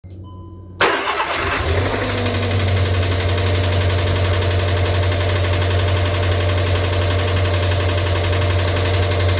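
Volkswagen Voyage 1.6 engine starting about a second in, its speed flaring briefly and falling back to a steady idle. This is the engine said to have an abnormal noise.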